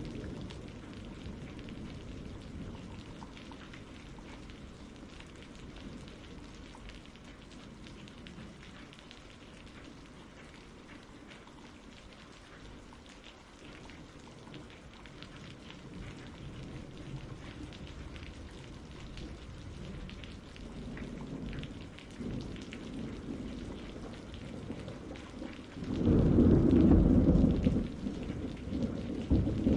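Steady rain with rolling thunder: soft rumbles build in the second half, then a loud, deep thunder rumble breaks about 26 seconds in and carries on into the end.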